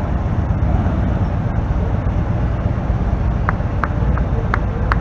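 Vintage roadster's engine running with a low, steady rumble as the car rolls past slowly. A few short high chirps come in the last second and a half.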